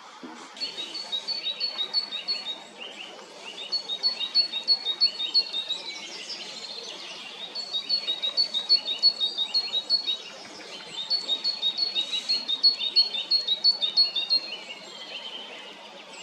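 A songbird singing four phrases, each a quick run of the same high two-part note repeated many times, with short pauses between phrases.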